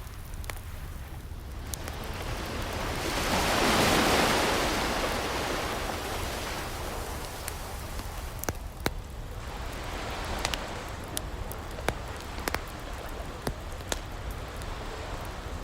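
Ocean wave washing in and drawing back, loudest about four seconds in, with a smaller wave near ten seconds, over a crackling wood fire that gives frequent sharp pops and snaps.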